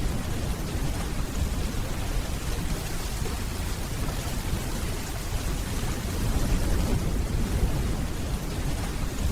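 Steady rainfall with a continuous low rumble of distant thunder beneath it, the rumble swelling slightly about six seconds in.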